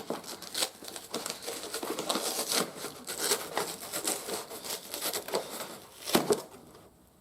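Rustling and crinkling as a paperback comic book is handled, with many small clicks and a sharp knock about six seconds in.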